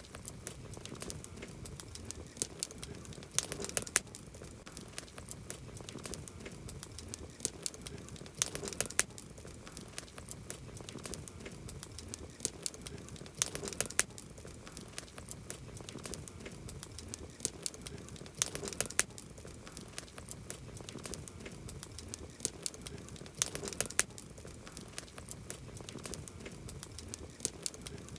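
Wood campfire crackling: a dense run of sharp pops and snaps over a low, steady hiss of burning. Louder clusters of snaps come about every five seconds.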